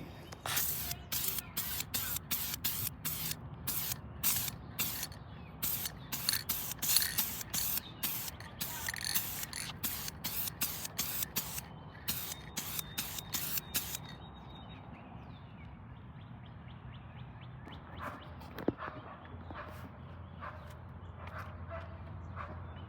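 Aerosol spray paint can sprayed in many quick short bursts, a rapid run of hisses that stops about fourteen seconds in.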